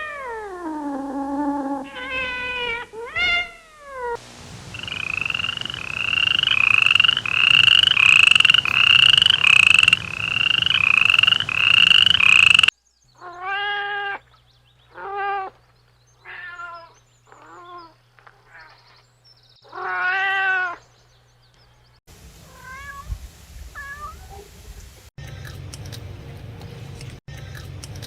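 Kittens meowing in a string of edited clips: a few falling meows, then a quick run of about ten high, evenly spaced cries, then after a cut a series of separate meows, and faint calls over a low rustle near the end.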